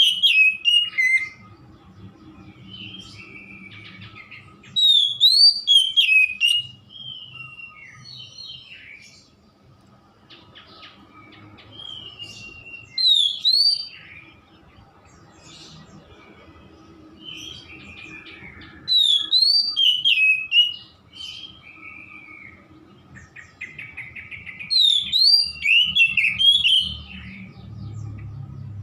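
Oriental magpie-robin (kacer) singing: loud phrases of whistled notes gliding up and down, five phrases about every six seconds, with quieter chirps between them.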